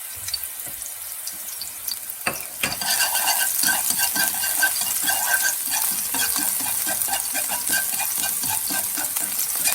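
Scallions frying in hot oil in a pan. A light crackling at first, then a knock about two and a half seconds in, after which the sizzle gets louder and denser, with steady spattering.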